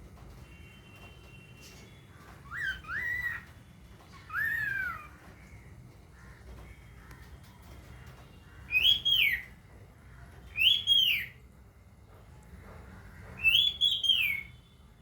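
Cockatiel calling: short whistled chirps that rise and fall in pitch. Two softer calls come in the first few seconds, then three louder, higher calls a couple of seconds apart in the second half.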